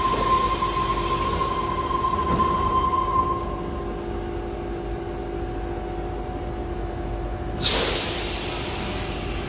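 Sydney electric suburban train at a station platform: a steady hum with a high, even whine that fades out about four seconds in, then a sudden burst of air hiss near the end.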